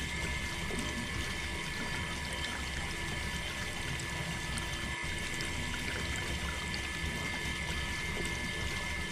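Water pouring and trickling steadily from a small DIY pump, with a steady whine from its small motor.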